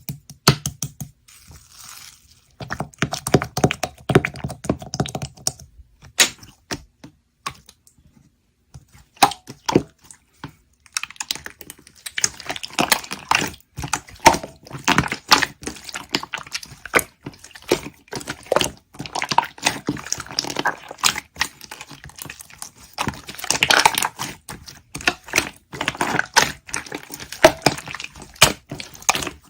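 Slime with clay mixed in being squeezed, folded and pressed by hand, making rapid, irregular sticky clicks and crackles.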